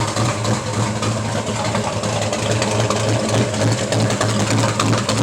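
Chevy 383 stroker small-block V8, built on a 400 block with a 350 crankshaft, idling steadily with an even pulse.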